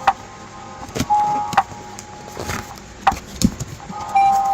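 Box and packaging being handled and opened: a series of separate knocks and clicks, about seven over four seconds.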